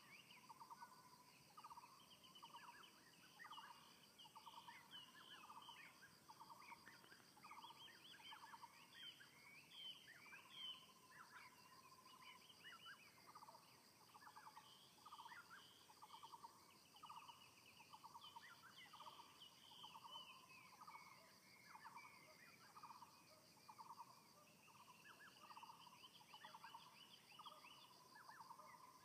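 Birds calling: faint, short trilled notes on one pitch repeat roughly once a second, with higher chirps from other birds over them.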